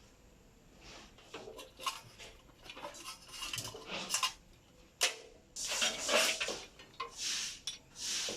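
Metal parts clinking and scraping against each other in irregular bursts, with longer scrapes in the second half.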